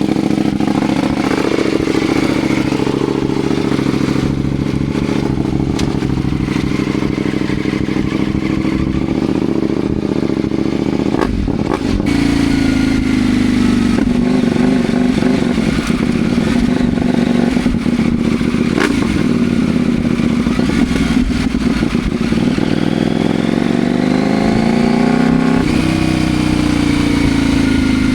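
CFMoto Ibex 800T motorcycle engine pulling under way, its pitch climbing steadily with speed. The pitch drops sharply at gear changes, about 12 seconds in and again near the end.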